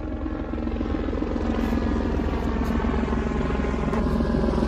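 Helicopter overhead: steady rapid rotor chop with a droning engine hum, growing gradually louder as it comes closer.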